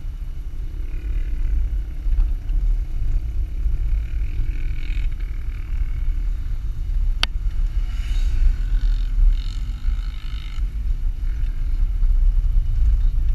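Jeep driving over sand dunes: a steady low engine and drivetrain rumble, with a single sharp click about seven seconds in.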